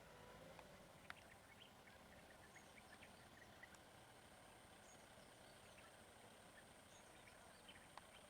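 Near silence: faint outdoor ambience with a thin high steady whine, scattered tiny chirps or ticks, and two faint clicks, one about a second in and one near the end.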